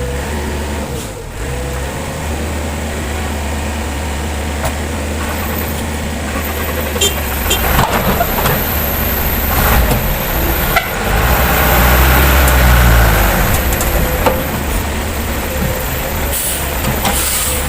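Heavy diesel machinery at a stuck dump truck running with a steady low drone, with several metal clanks in the middle and the engine working harder for a couple of seconds after them. A short hiss near the end.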